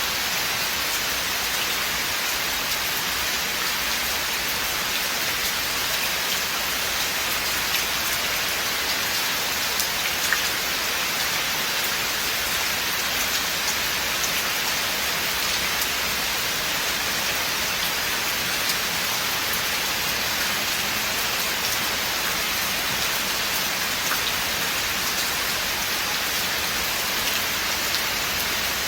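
Steady rain falling through a forest, a dense even hiss with scattered individual drops ticking on leaves and surfaces.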